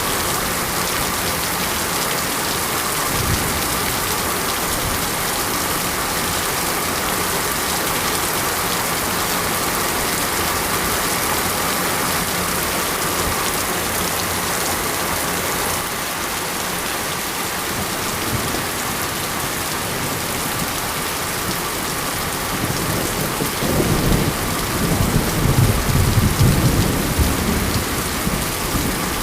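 Monsoon rain falling steadily. About five seconds before the end, a low rumble of thunder rolls in under the rain.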